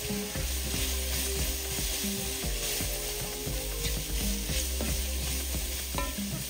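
Food sizzling in hot oil in a cooking pan while being stirred, a steady frying hiss.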